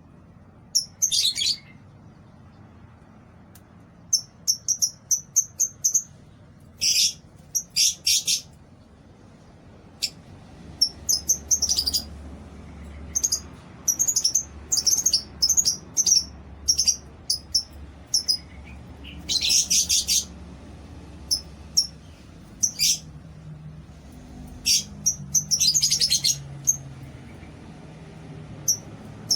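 Lovebirds chirping: short, sharp, high-pitched calls and brief trills, coming irregularly every second or two.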